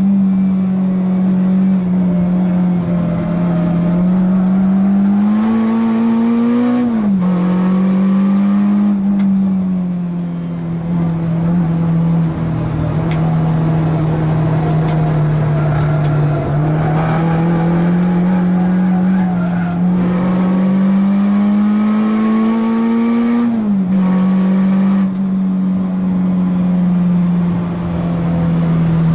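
Renault Clio 2 RS's naturally aspirated 2.0-litre four-cylinder engine, heard from inside the cabin under hard track driving. The engine note climbs steadily and drops sharply at two upshifts, about seven seconds in and again near the end, and sags gently in the stretch between.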